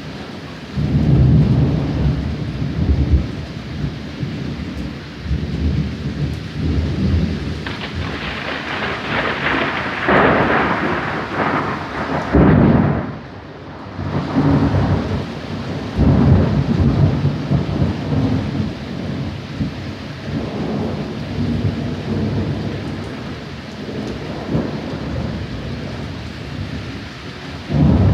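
Thunderstorm: thunder rumbling and rolling on and off over steady rain, with several loud surges, the first about a second in.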